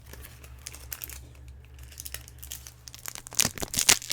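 Foil booster-pack wrapper crinkling faintly, then torn open with loud, dense crinkling and ripping from about three seconds in.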